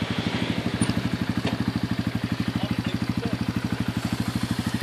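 Vehicle engine idling steadily with an even, fast pulsing beat, most likely the towing 4x4's engine.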